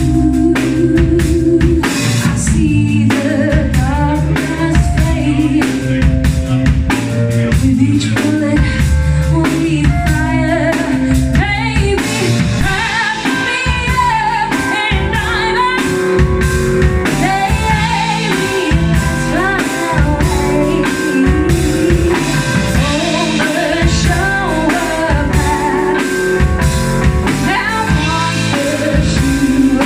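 Live band music: a singer over drum kit and guitar, playing steadily, with the vocal line coming in strongly about twelve seconds in.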